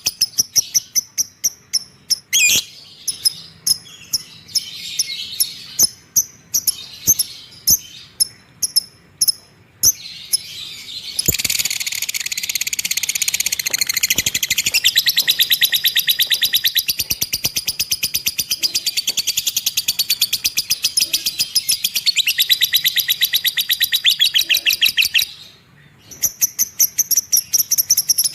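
Lovebird calling: first a string of short, separate high chirps, about two a second. Then, about a third of the way in, a long, unbroken, very rapid chatter (the lovebird's 'ngekek') that runs for around fourteen seconds, breaks off briefly, and starts again near the end.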